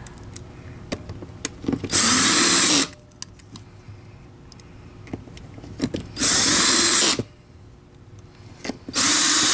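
Electric drill/driver running in three short bursts of just under a second each, driving in the three screws that hold the vacuum's housing together. Small clicks of handling come between the bursts.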